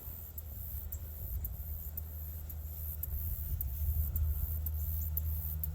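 Low rumble of wind on the microphone, slowly growing louder, with faint high ticking repeating a few times a second.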